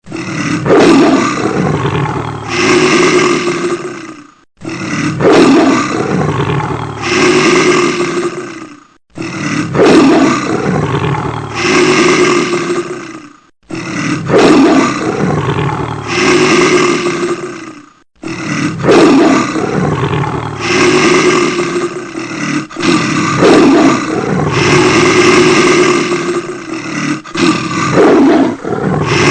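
A looped animal roar sound effect repeats about every four and a half seconds. Each round opens with a sweeping roar and ends in a long held call, with a short break before the next.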